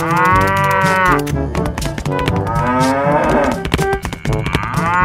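Cow mooing: three long moos, the last still going at the end, over background music with a steady beat.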